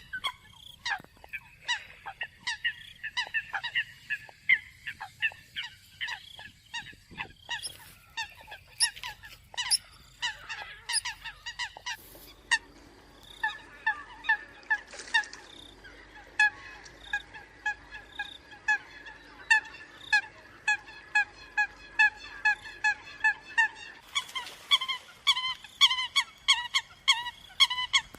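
Eurasian coots calling: a rapid, continuous series of short, sharp honking notes repeated several times a second. The run of calls changes abruptly about twelve seconds in and again near the end.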